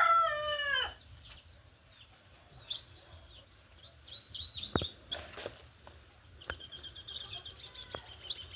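A rooster's crow trailing off with a falling pitch, ending about a second in, followed by scattered short bird chirps. About two-thirds in, a steady high rapid trill starts and runs on.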